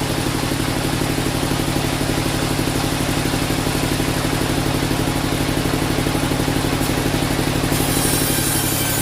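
Engine at a sawmill running steadily with a fast, even pulse. A high hiss joins in near the end.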